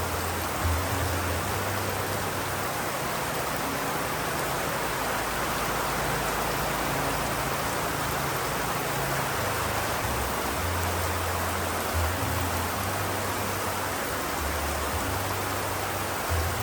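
Steady rain, an even, unbroken hiss, with a low rumble that comes and goes underneath.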